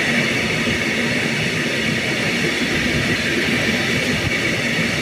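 Freight train passing: a loud, steady rush of wagon wheels running on the rails.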